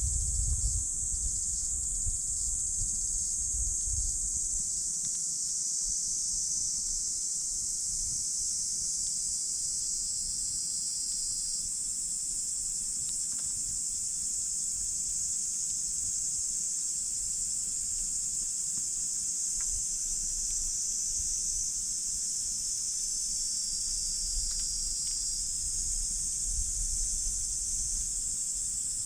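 A steady, high-pitched insect chorus runs throughout, with a few faint crackles from a wood campfire. There is a low rumble in the first few seconds.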